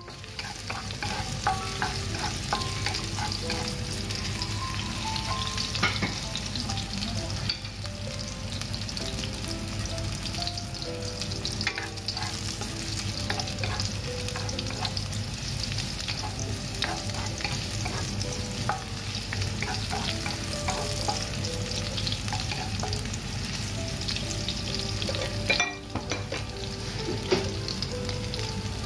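Sliced ginger and garlic sizzling in hot oil in a stainless steel wok, with a wooden spatula stirring and scraping against the pan in scattered clicks. The sizzle dips briefly near the end.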